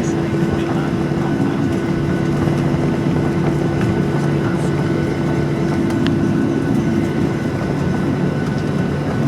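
Boeing 737-800 cabin noise: the CFM56 jet engines and air systems running with a steady hum and rush, heard from inside the cabin.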